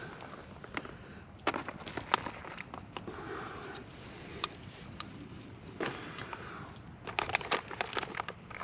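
Scattered crinkles, clicks and light knocks of a freeze-dried meal pouch and camp cookware being handled, with the sounds coming thickest near the end.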